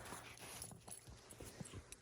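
Faint scattered footfalls and scuffs of a dog moving about on snow and ice.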